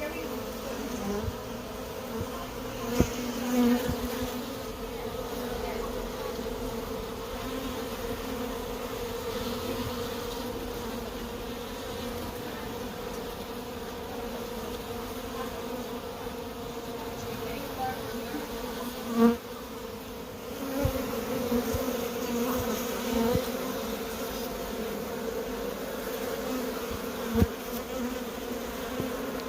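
Honeybee swarm buzzing as a steady, even hum as it settles into a nucleus box with its queen. A few short thumps stand out: about three seconds in, near the middle and near the end.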